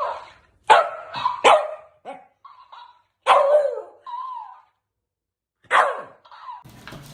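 A dog barking in a string of short barks and yips, with gaps between them and a longer bark about three seconds in. In the last half-second a steady, noisy clatter takes over.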